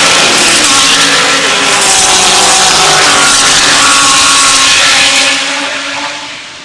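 GT3 race cars passing at speed, their engine notes loud and bending up and down, then fading away over the last second or so.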